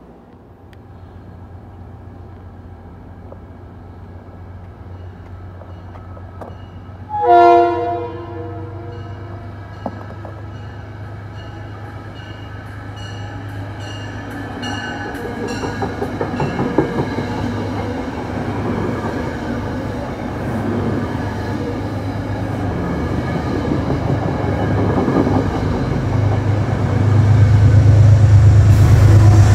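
A train horn sounds once, briefly, about seven seconds in. Then a Metro-North push-pull commuter train runs in along the platform: the clatter of wheels on rail builds, with regular ticks over the joints, and a low engine rumble grows loudest near the end.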